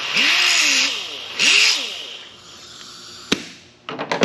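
A grinder run in two short bursts against sheet metal, its motor pitch rising and falling with each burst, grinding a bare spot on a truck panel. A sharp click follows, then a few light knocks near the end.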